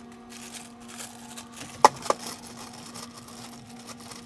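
A small electric motor running at a steady speed, a steady hum with overtones, after spinning up just before. Two sharp clicks about two seconds in.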